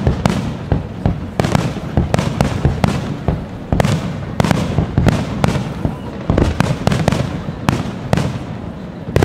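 Fireworks display: a rapid, unbroken run of aerial shells bursting, several bangs a second with crackle and rumble between them.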